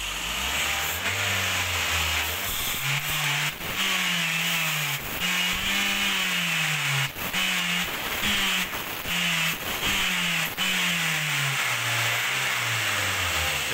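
Daihatsu Gran Max's fuel-injected engine running, its revs rising and falling over and over, with the hiss of aerosol carburettor cleaner being sprayed into its dirty throttle body.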